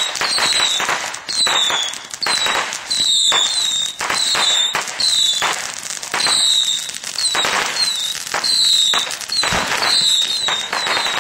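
Fireworks firing a shot about once a second. Each shot is a short burst of noise, and many are followed by a brief high falling whistle.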